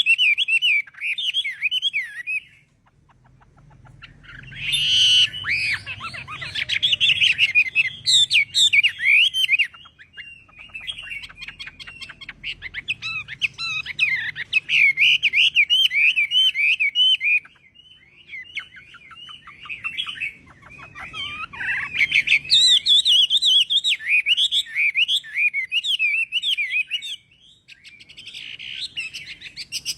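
Chinese hwamei (melodious laughingthrush) singing: long runs of rapid, varied whistled notes, broken by short pauses about three seconds in, at about eighteen seconds, and near the end.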